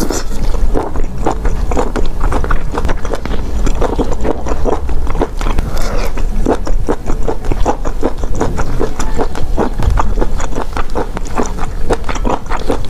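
Close-miked eating sounds of someone chewing and sucking seafood in chili oil: a dense, irregular run of quick wet clicks and smacks.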